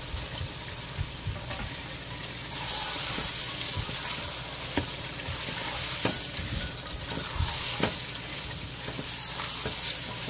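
Raw chicken pieces sizzling in hot oil and masala in a nonstick pot, being stirred and turned with a spatula, with a few sharp scrapes and knocks of the spatula against the pot. The chicken is being fried so that its water cooks off.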